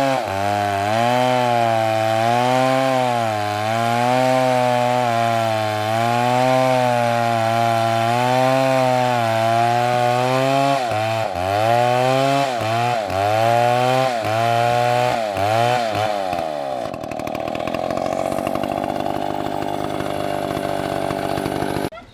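Big two-stroke chainsaw (an MS720) cutting through a large trunk under load, its engine note rising and falling as the bar works the cut. From about halfway through it bogs down sharply several times. For the last few seconds the engine note gives way to a steadier, rougher sound, which stops abruptly near the end.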